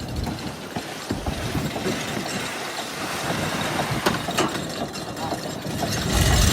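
A fishing boat's engine running steadily, with mechanical clattering over it.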